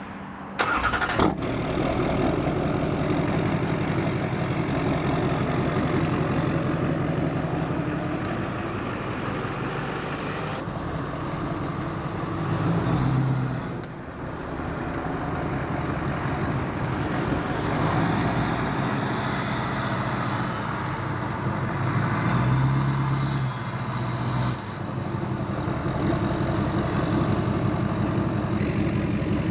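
Truck engine starting about a second in, then idling steadily, briefly running louder twice.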